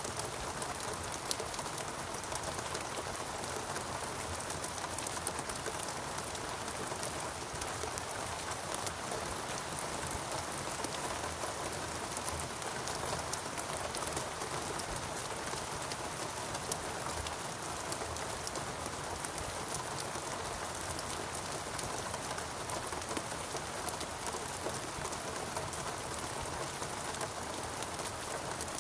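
Steady rainfall in a rainforest, a continuous even hiss of rain with dense pattering of drops on foliage and surfaces.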